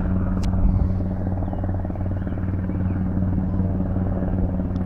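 Rescue helicopter flying over, its rotor blades chopping rapidly and steadily over a low engine drone.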